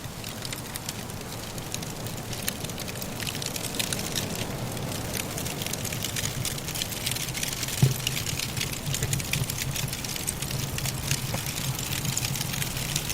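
Firewood crackling in a fireplace: many small, quick pops over a steady low rumble of soft wind, with one louder pop about eight seconds in.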